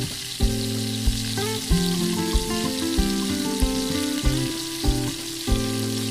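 Food sizzling as it fries in hot oil in a pan, with background music over it: held notes and a steady beat of about three knocks every two seconds.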